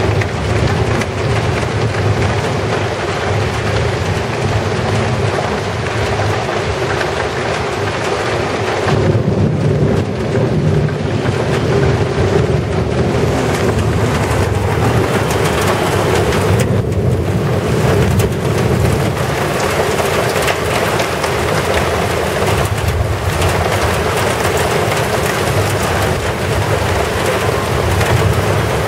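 Heavy rain pouring down steadily in a thunderstorm, a dense even hiss with a constant low rumble underneath.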